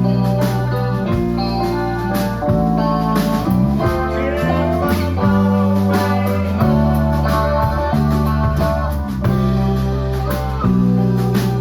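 A live band playing an instrumental passage: electric guitar lines over bass and drums, with organ chords underneath, in a blues style.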